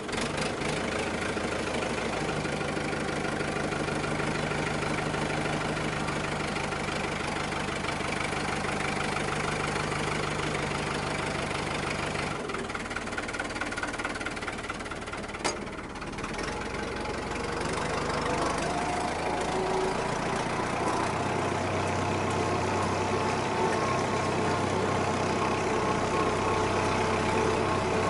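Farm tractor's diesel engine running steadily just after being started, its speed changing around the middle of the stretch, with a single sharp click about fifteen seconds in.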